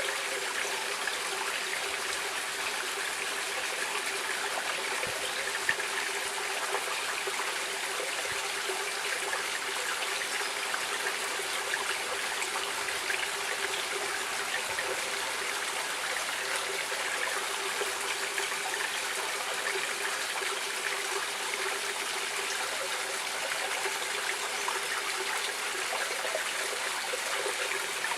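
A stream of water running and trickling steadily, a continuous splashing hiss.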